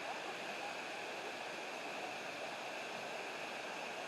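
Steady rushing of river water and a waterfall, an even unbroken noise.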